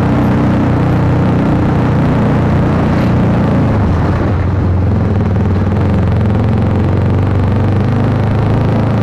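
Honda CBR150R's single-cylinder engine running through an Akrapovic aftermarket exhaust, a loud, steady exhaust note at fairly constant engine speed that softens briefly about four seconds in.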